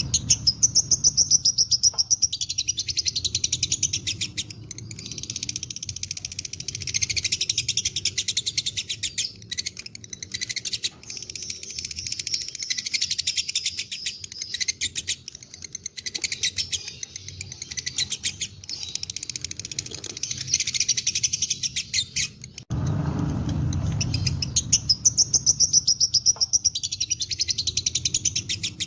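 Lovebird 'ngekek': a long, rapid rattling chatter of high, sharp notes repeated many times a second, running on with only brief dips. About three-quarters of the way through it breaks off abruptly and starts again over a low rumble.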